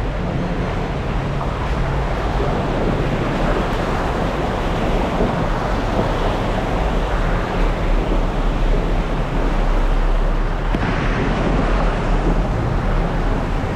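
Jeep driving with a steady engine hum under loud rushing road and wind noise buffeting the camera microphone.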